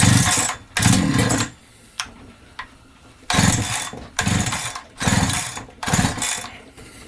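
Holzfforma G372XP two-stroke chainsaw being pull-started: six rope pulls, two, then a short pause and four more in quick succession. The engine cranks over briefly with each pull but does not catch, a saw that is hard to start with a fuel-related problem.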